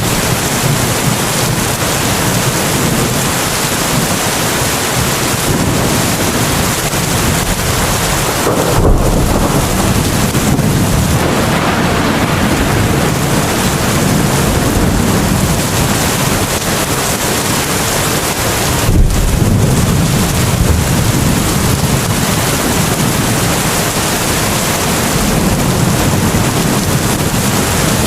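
Steady rain falling, with two low rumbles of thunder about a third and two-thirds of the way through.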